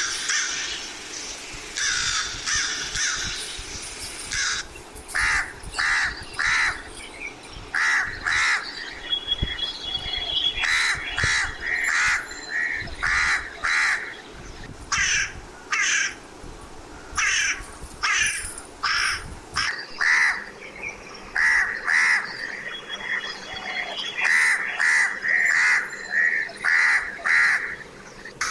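Crow cawing over and over, short harsh caws coming in quick runs of several calls with brief gaps between runs.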